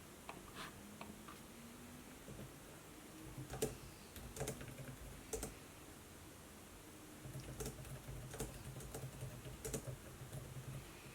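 Soft typing on a laptop keyboard in two runs with a short pause between, a few keys clicking louder than the rest.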